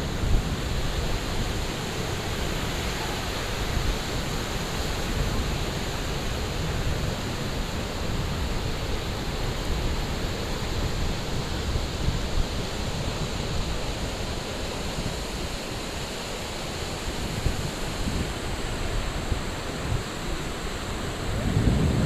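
Steady rush of ocean surf on a beach, with wind buffeting the microphone.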